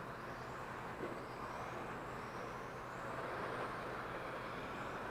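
Electric 1/10 RC touring cars running laps, their brushless motors giving faint high whines that rise and fall as they accelerate and brake, over a steady hiss.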